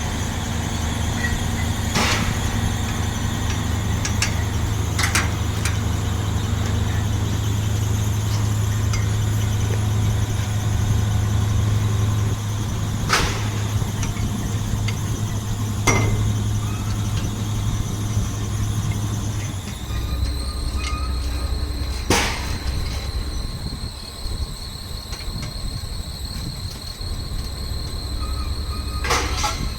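Steady mechanical hum with a high, thin squeal over it and a few sharp knocks; about twenty seconds in the hum drops to a lower pitch.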